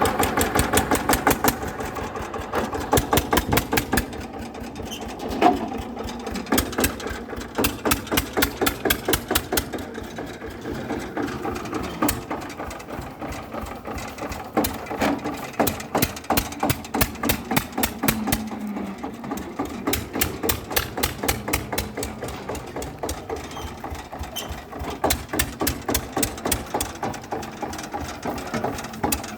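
Mini tractor running with an engine-like, rapid, even knocking at about five or six beats a second. The pace varies a little.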